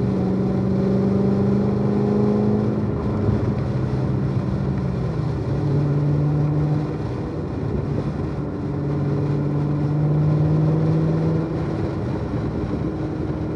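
Chevrolet Corvette C7 Z06's supercharged V8 running at low, steady revs while cruising on a cool-down lap, with road and tyre noise underneath. Its note drops in pitch about five seconds in and holds lower.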